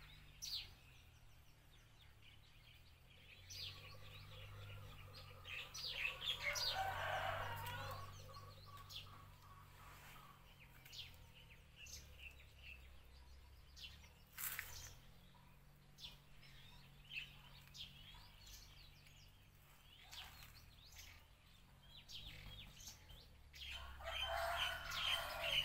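Faint, scattered bird chirps, with two louder stretches of calling, one about six seconds in and one near the end.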